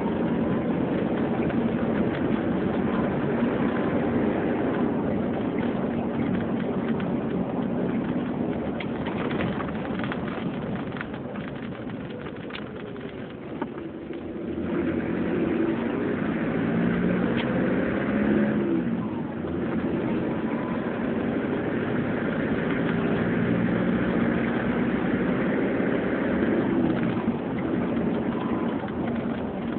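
Turbocharged car engine running at changing revs, with the turbocharger whistling. The engine eases off about halfway through, then pulls again with the whistle rising over it.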